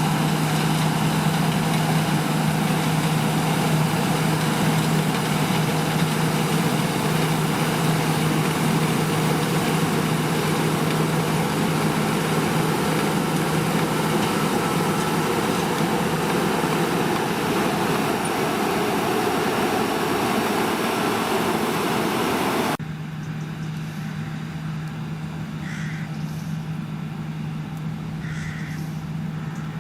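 Diesel engine of heavy harvest machinery running steadily under load. About 23 s in, the sound drops suddenly to a quieter, steady engine hum with a few faint bird calls.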